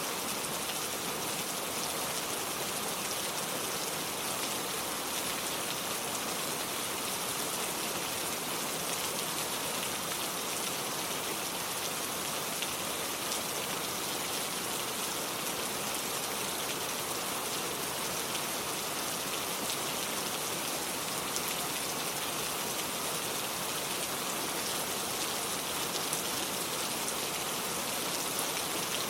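Steady rain with many fine raindrops pattering onto a lake's surface and a wooden porch.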